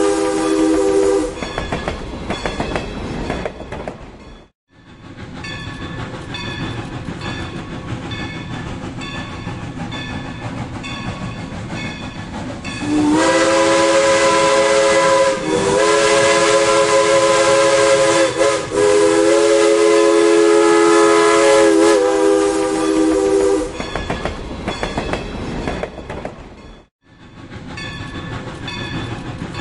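Steam locomotive and train passing: rumble with regular clicking of wheels over rail joints, while the locomotive's chime whistle sounds briefly at the start and then in one long blast of about ten seconds in the middle, broken twice for a moment. The sound drops out briefly twice.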